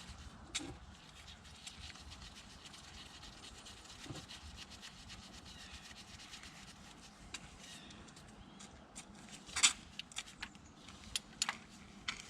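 Wrench turning the injector crossover tube nut on a 5.9 Cummins to 11 foot-pounds: faint rubbing and scraping of the tool on the nut with light clicks, one sharp click a little under ten seconds in, then a few more clicks.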